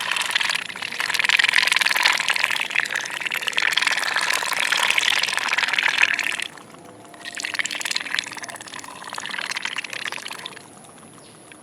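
Ducks slurping and dabbling a watery mix of feed from a bowl: a dense, wet, crackling sputter. It breaks off about six and a half seconds in, returns twice more weakly, and stops near the end.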